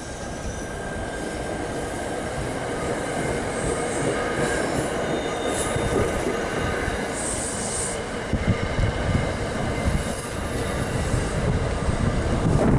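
A train running through on the rails with a steady rumble and a few brief high wheel squeals in the middle, and wind gusting on the microphone toward the end.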